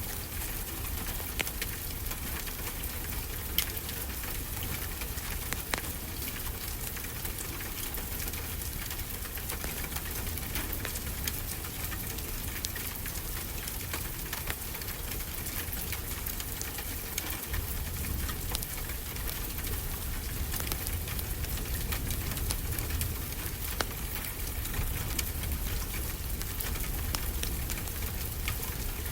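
Steady rain falling, with a wood fire crackling in a fireplace and now and then a sharp pop.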